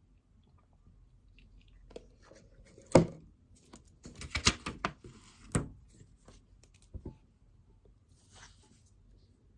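Things being handled on a study desk: a sharp knock about three seconds in, then a quick run of clicks, taps and rustling, another knock, and a pair of light taps near the end.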